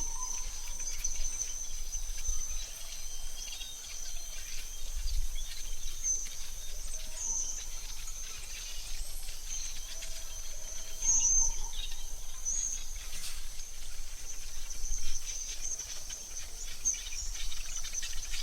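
AI-generated forest ambience: a steady high-pitched insect drone with a few short bird chirps now and then, over a low rumble.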